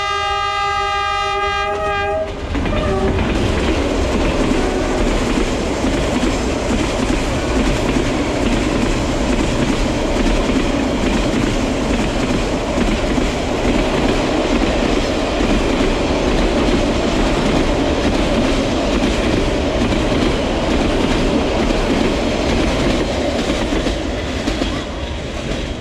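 Train horn sounding one long blast for the first two seconds as the train approaches. Then the train passes close by: a steady, loud rumble and clatter of wheels on the rails as container wagons and coaches roll past, easing off near the end.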